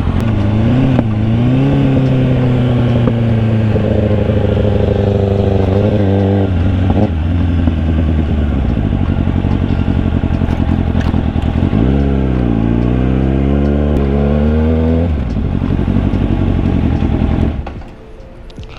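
Yamaha FZ-09's three-cylinder engine under way with wind rush, the revs climbing and falling several times as the throttle is rolled on and off. The engine eases off and drops away in level near the end as the bike slows.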